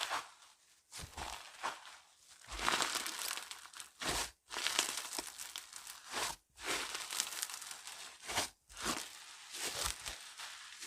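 Slime being squeezed and stretched by hand, making crackly, crinkling pops in repeated bursts of about a second each, with short pauses between them.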